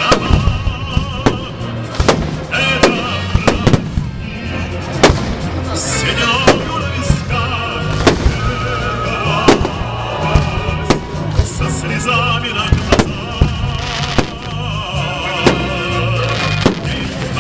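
Holiday fireworks salute: sharp bangs of bursting shells at irregular intervals, several a second at times, over a steady bed of music and voices.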